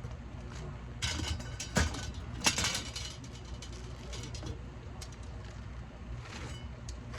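Work noise of clattering and scraping, with two sharp knocks about two and two and a half seconds in, over a steady low hum.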